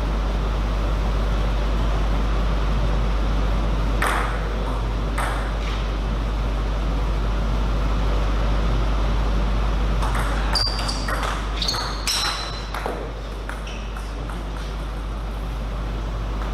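Table tennis ball: a couple of single hits about four and five seconds in, then a quick run of hits and bounces in the later part, over a steady background hum.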